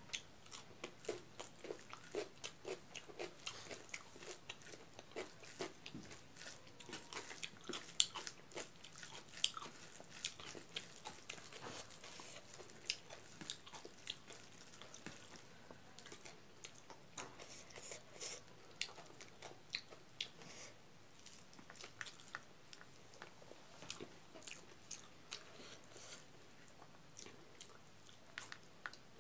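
Close-up eating sounds of a person chewing raw cucumber and hand-fed mouthfuls of rice: many quick, irregular crunches and wet mouth clicks.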